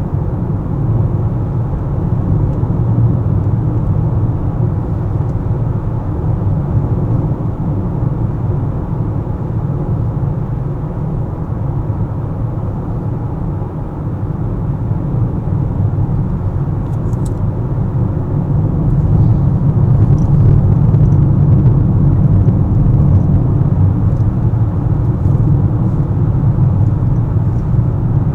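A car driving: a steady low rumble of tyres and engine, growing a little louder about two-thirds of the way through, with a few faint ticks near the end.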